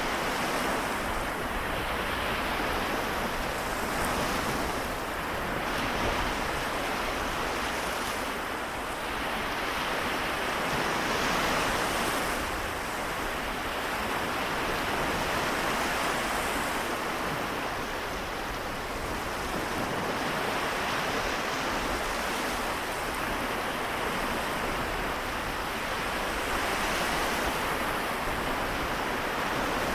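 Small waves of the Seto Inland Sea washing onto the shore, a steady wash of surf that swells and eases every few seconds.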